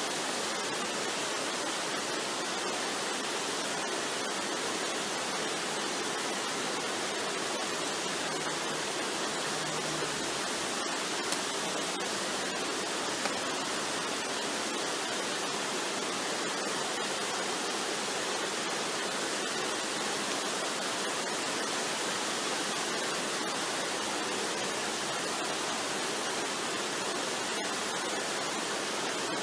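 Waterfall: steady rushing water, an even hiss with no change in level, broken only by two faint ticks a little before the middle.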